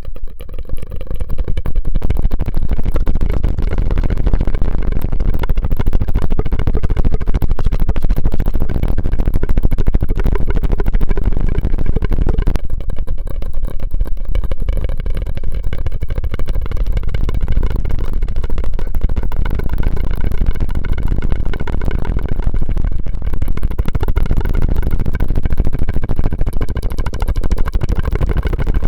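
Close-miked ASMR mouth and straw sounds: a dense, continuous run of crackling and clicking.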